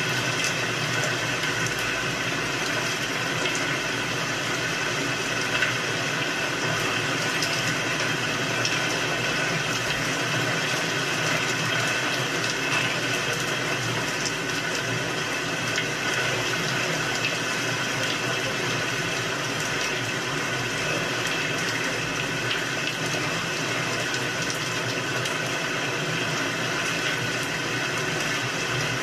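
Steady rain: an even hiss with small drop ticks scattered through it.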